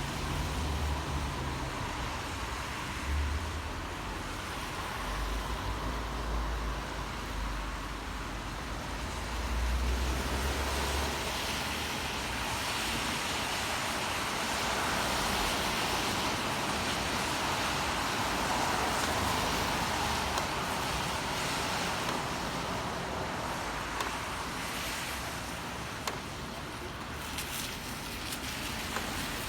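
City traffic on rain-wet streets: a steady hiss of tyres and engines. A low rumble runs through roughly the first ten seconds, and a vehicle swells past and fades in the middle.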